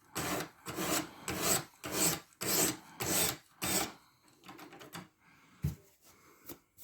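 Diamond sharpening stone on a guided sharpener drawn along a 14C28N steel knife edge, about two scraping strokes a second. The strokes stop a little past halfway, leaving only faint small scrapes and clicks.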